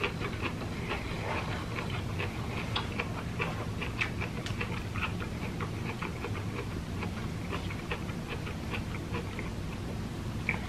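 A person chewing jackfruit close to the microphone: an irregular run of small wet mouth clicks and smacks, several a second, over a steady low hum.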